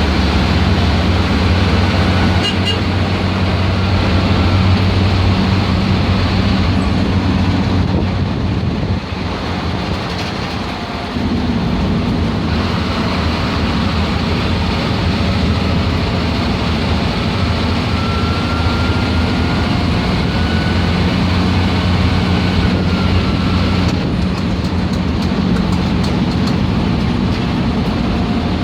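MSRTC bus diesel engine running hard under load, with a thin turbocharger whistle that rises slowly and then falls away. The engine note drops briefly about ten seconds in, then picks up again.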